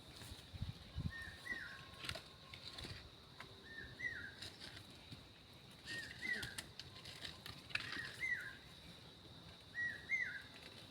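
A bird calling over and over, one short two-part call about every two seconds, with a faint steady high tone behind it and a few scattered light knocks.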